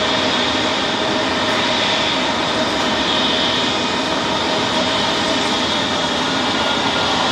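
Jet airliner engines running loud and steady: a broad rush of noise with a steady high whine.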